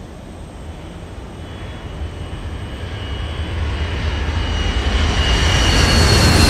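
Airplane engine sound effect of a plane coming down, growing steadily louder, with a high whine that drops slightly in pitch near the end.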